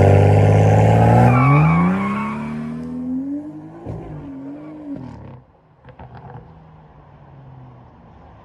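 BMW 335i's N55 turbocharged straight-six, with catless downpipe and muffler delete, accelerating hard away. The engine note climbs steadily in pitch for about three seconds, then fades into the distance.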